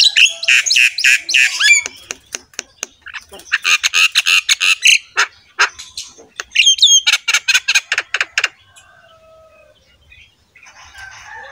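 Bird chirping in loud, rapid runs of short high notes that stop about eight and a half seconds in, followed by a few fainter, lower calls.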